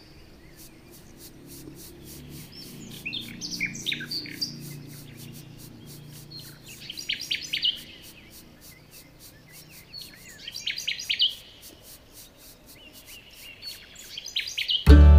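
Small birds chirping in four short clusters of quick high chirps, spaced a few seconds apart, over a faint low hum.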